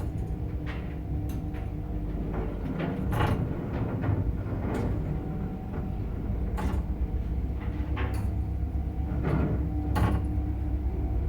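Old Soviet Samarkand-built passenger lift in operation: a steady hum, with about nine sharp clicks and knocks scattered through it.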